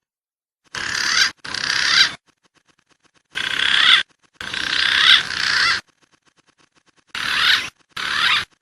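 Recorded wild pigeon calls played as a bird-lure track: gliding whistled notes over hiss, in six short bursts grouped in three pairs, each cut off abruptly.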